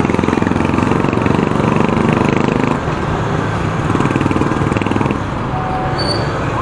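Motorcycle running along the road under way, engine and road noise steady, easing off and getting quieter about three seconds in.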